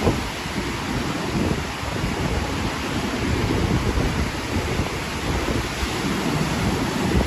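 Strong wind buffeting the microphone in uneven gusts, a heavy rumble under a steady hiss.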